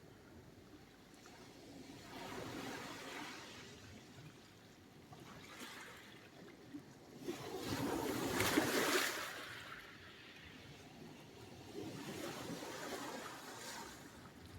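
Sea waves breaking and washing on the shore: four swells of surf a few seconds apart, the loudest just after the middle.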